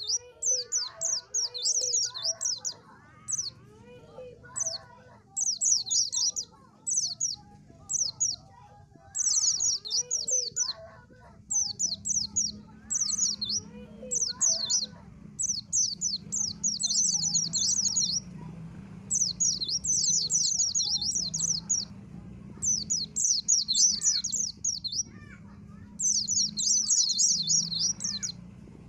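White-eye (pleci) song: rapid, high twittering phrases in bursts of a second or two, repeated with short gaps. Fainter, lower chirps run under it in the first half, and a low steady hum comes in about midway.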